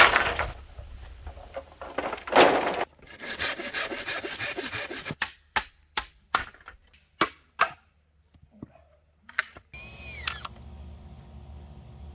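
Hand tools working wood: several rasping strokes, then a run of about eight sharp knocks with short gaps between them.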